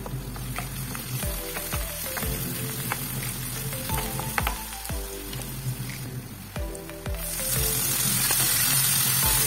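Food frying in hot oil in a pan, the sizzle jumping much louder about seven seconds in, under background music with a steady beat.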